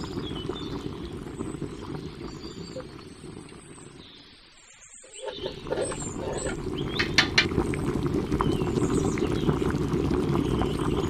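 Rice boiling in a large aluminium pot of water, a steady bubbling that fades away briefly about halfway through and then comes back. A long metal spoon stirs the rice, giving a few sharp knocks against the pot soon after.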